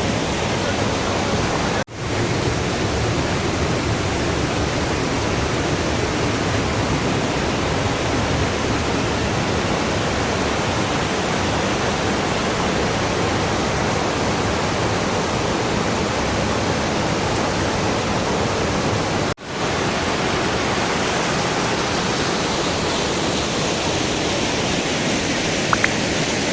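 Waterfall rushing in a loud, steady roar of falling water, broken twice by brief drop-outs.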